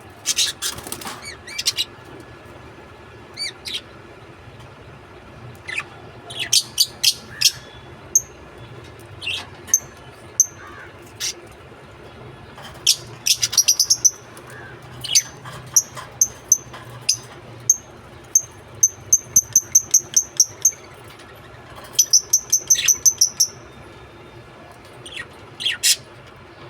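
Pet lovebirds chirping: sharp, high-pitched calls in scattered clusters, with rapid runs of short repeated chirps about halfway through and again a little later.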